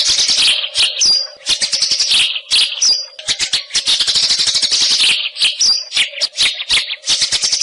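White-rumped shama singing: fast rattling, chattering phrases broken by short pauses, with a few brief high whistled notes, over a faint steady hum.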